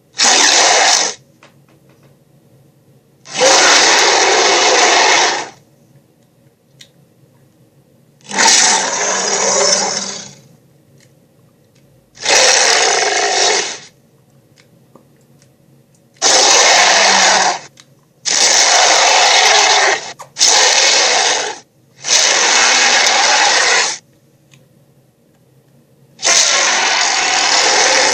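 A series of about nine harsh, raspy creature roars from cartoon sound effects, each lasting one to two seconds and cutting off abruptly, with short silent gaps between them.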